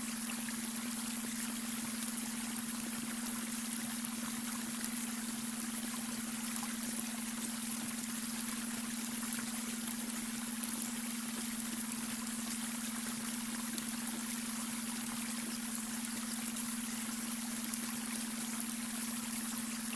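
Babbling brook: a steady rush and trickle of running water with fine splashy flickers. Under it runs a steady low hum, the beta-wave brainwave tone mixed into the water sound.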